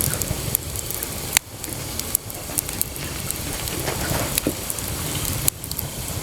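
Wood bonfire burning: steady crackling over a low rumble, with frequent small pops and a couple of sharper snaps.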